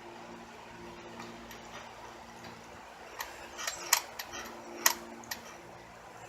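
A handful of sharp, light clicks and taps of small parts of a disassembled throttle body being handled, bunched in the middle couple of seconds with two louder clicks, over a steady low hum.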